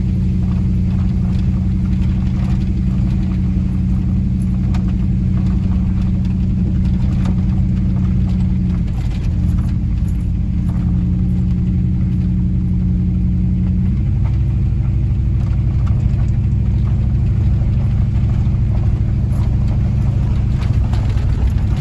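Car engine and road noise heard from inside the cabin while driving: a steady low drone whose tone shifts about two-thirds of the way through.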